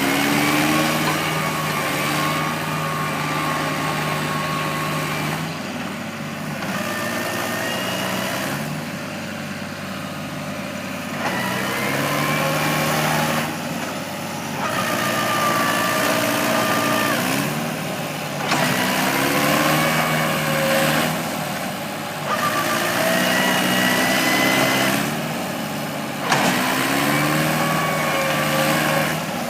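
Tractor engine revving up and easing off over and over, labouring under load as the stuck tractor tries to pull free.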